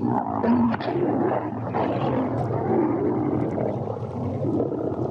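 Many lions growling and snarling at once as they fight over a kill, a continuous overlapping din.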